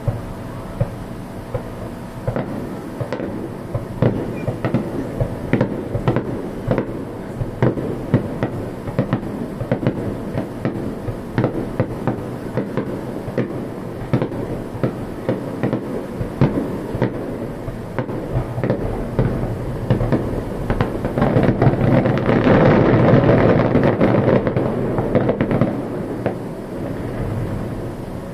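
Aerial fireworks bursting in quick succession, a steady run of sharp bangs and crackles. About three quarters of the way through they pile into a dense, loud barrage, then thin out again.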